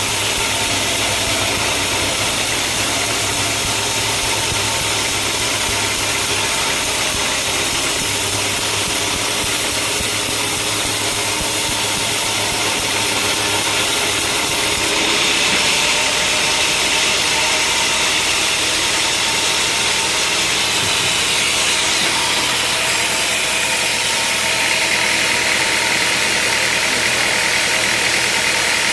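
Sawmill machinery running steadily: a continuous engine-like drone with a hiss over it, whose upper hiss shifts about halfway through and again later on.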